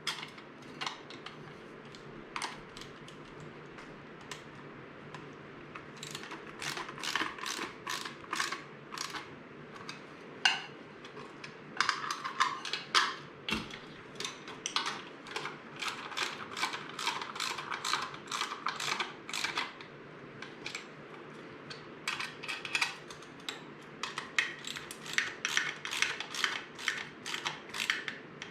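13 mm socket ratchet clicking in repeated runs of quick strokes as bolts and nuts on a steel mobile base are tightened, about three to four clicks a second, with short pauses between the runs.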